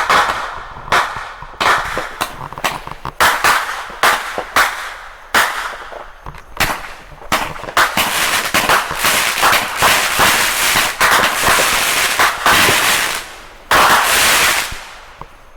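Consumer fireworks going off: a rapid run of sharp bangs and pops, thickening into dense crackling in the second half, then cutting off suddenly at the end.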